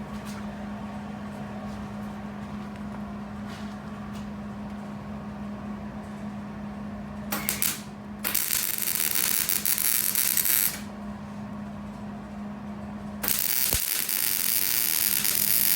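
MIG welder arc crackling in three bursts: a short tack about seven seconds in, a weld pass of about two and a half seconds, then another lasting about three seconds near the end. It is laying beads on a steel exhaust flange. A steady low hum runs underneath.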